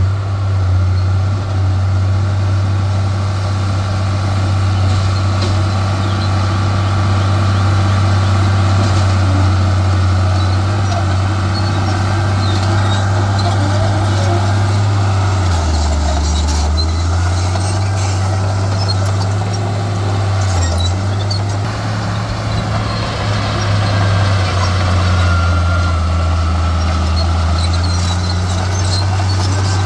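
Heavy diesel engine of earthmoving machinery running steadily under load, its low hum dropping in pitch briefly a little past halfway and again a few seconds later.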